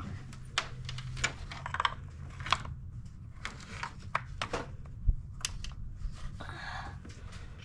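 Scattered light clicks, taps and a brief crinkling rustle of things being handled as the oil fill is finished, over a steady low hum.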